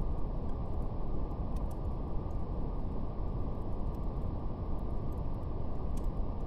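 Steady brown noise: a deep, even rush with nothing above a low cutoff. A faint crackle of a fire is scattered through it as a few light clicks.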